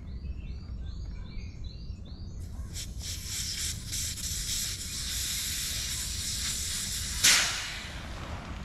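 A bird calling in a quick series of repeated short notes. Then, about two seconds in, a steady hiss starts abruptly and runs for about five seconds, ending in a sharp, loud bang that fades quickly, over a low steady rumble.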